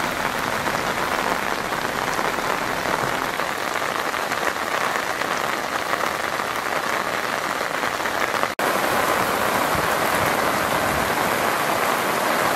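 Torrential rain pouring down onto a flooded road: a dense, steady hiss. The sound cuts out for an instant about two-thirds of the way through and resumes slightly louder.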